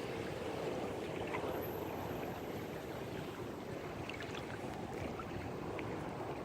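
Small waves washing at the water's edge: a steady wash with a few faint splashes.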